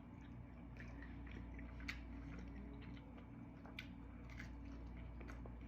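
Faint chewing of thin-crust pizza, with scattered soft clicks over a low steady room hum.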